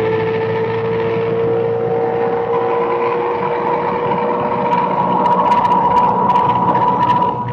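Classic Porsche 911's air-cooled flat-six heard from inside the cockpit, held at high revs under load, its pitch climbing slowly as the car pulls through a gear. A few sharp clicks sit over it from about five seconds in, and the engine note drops away near the end.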